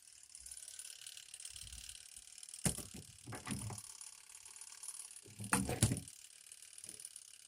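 Mechanical clicking and knocking from handling a portable twin-tub washing machine, in two short bouts about two and a half seconds apart, over a faint hiss.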